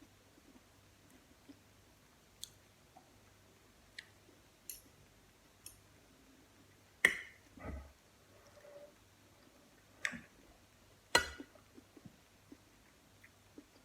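Eating sounds: sparse small clicks and a few sharper knocks, the loudest about seven and eleven seconds in, with soft chewing between them, as tomatoes and mozzarella are eaten.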